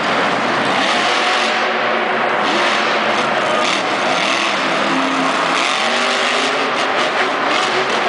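Monster truck engine revving inside a domed stadium, a loud, steady wash of engine noise whose pitch rises and falls.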